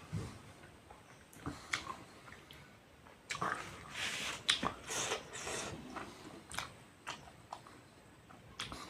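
A person biting and chewing food close to the microphone, with sharp mouth clicks, most busily in the middle few seconds.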